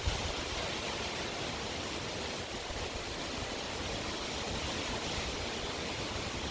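Strong wind blowing as a steady, even rush of noise with no distinct gusts.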